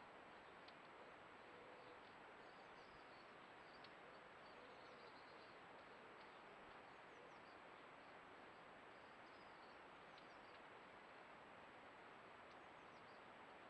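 Near silence: a steady faint hiss with faint, high bird chirps now and then.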